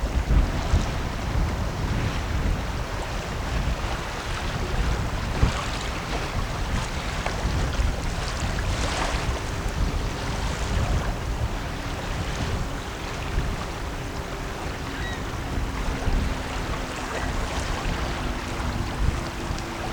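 Wind buffeting the microphone beside the river, with a gusty low rumble. About halfway through, the faint steady engine hum of the passing 140-ft Coast Guard icebreaking tug Morro Bay joins in.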